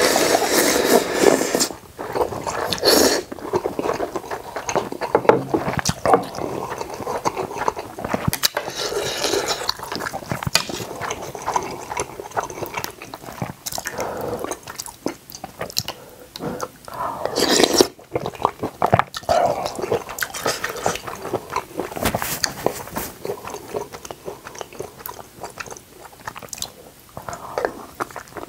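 Close-miked chewing and biting of beef seaweed-soup ramen: wet mouth sounds and small crunches in an irregular run, with louder flurries near the start and a little past halfway.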